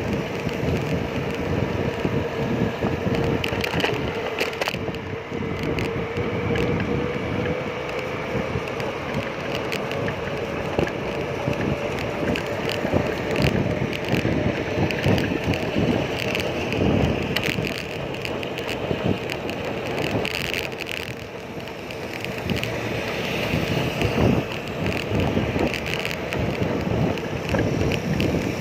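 Wind buffeting the microphone and road noise from a bicycle being ridden along a street, with frequent small rattles and clicks and the drone of motor traffic, including a steady hum through the first half.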